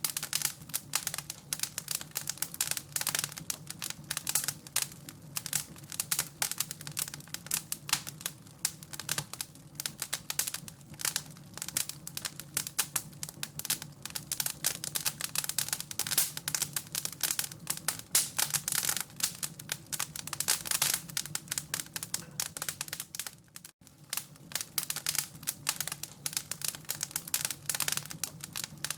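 Wood fire crackling in a fireplace: a dense, irregular stream of small pops and snaps over a low steady hum. The sound cuts out for an instant about three-quarters of the way through.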